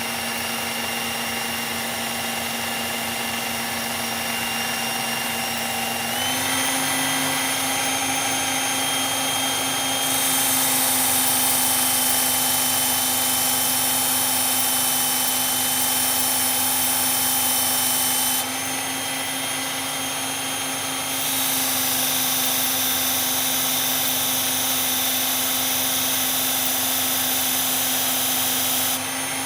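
Electric knife sharpener running steadily; its motor pitch steps up a few seconds in. The blade is held to the abrasive twice, giving two long stretches of rasping grinding over the motor hum.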